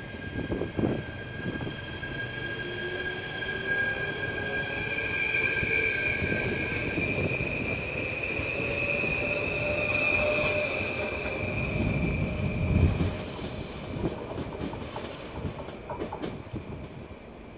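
Stadler FLIRT 3 electric multiple unit pulling away and gathering speed. Its electric drive whines with a pitch that rises over several seconds, over high steady squealing tones and the rumble of the wheels, with a heavier knock late on. The sound then fades as the train moves off.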